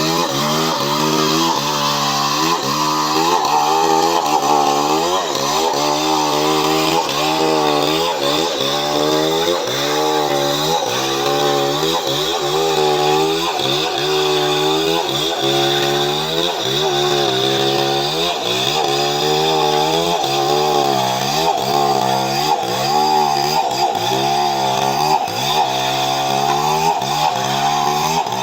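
Chainsaw running under load as it cuts coconut wood. Its engine note dips and recovers over and over, about once a second, as the chain bites into the wood.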